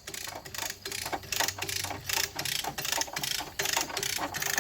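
Hand-cranked come-along ratcheting: a steady run of sharp pawl clicks as it is worked under load, drawing the broken halves of a tractor back together.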